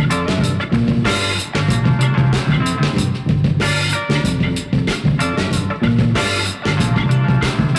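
Instrumental funk band playing a steady groove, with a drum kit beat.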